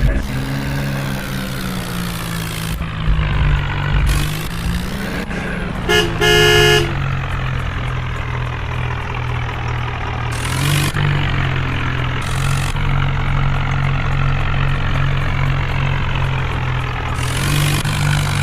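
A tractor's diesel engine runs steadily under load, its pitch dipping and rising briefly about four seconds in. A horn honks once, loudly, for under a second, about six seconds in.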